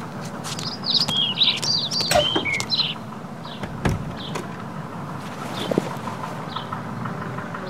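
Birds chirping: a quick run of twittering chirps in the first three seconds, then single short chirps about once a second, over a steady low background hum. A single knock sounds near the middle.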